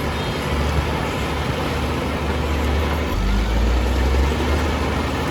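Heavy diesel engine of earthmoving machinery running steadily, a deep rumble that swells louder for a second or so about three seconds in.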